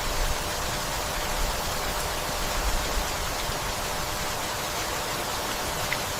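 Steady rain falling on leaves and a wooden house, an even hiss with a few soft low rumbles and a single faint drip-like tick near the end.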